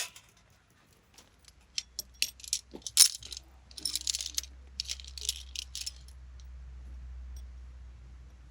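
A string of light clicks and clinks from small hard objects being handled, in a quick flurry from about three to six seconds in, with a faint low rumble under the second half.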